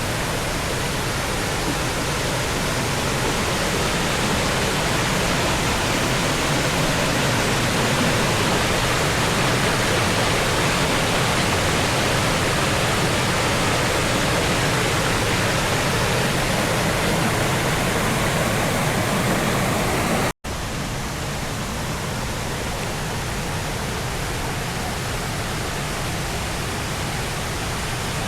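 Steady rushing of water over the cascades of a limestone waterfall. A momentary drop-out about two-thirds of the way through, after which the rush continues slightly quieter.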